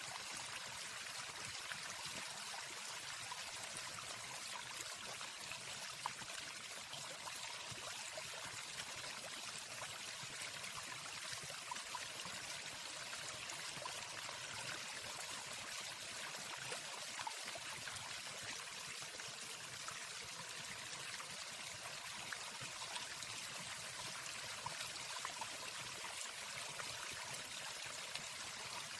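Waterfall: steady rushing of falling water, with no bird singing over it.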